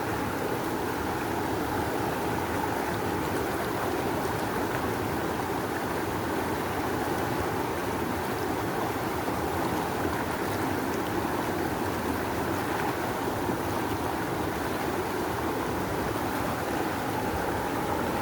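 River rushing: a strong, steady flow of water, an even churning roar with no breaks.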